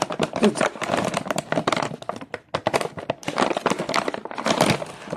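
Plastic food packaging crinkling and crackling in the hands, with a dense run of irregular crackles as it is worked open.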